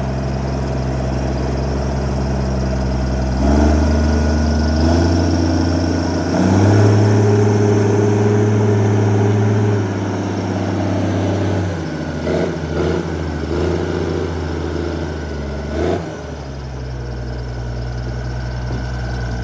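A heavy logging machine's diesel engine idling, then revving up in two steps about three and a half and six and a half seconds in and holding high revs as if under load. It drops back around ten and twelve seconds, surges a few times, and settles back to idle at about sixteen seconds.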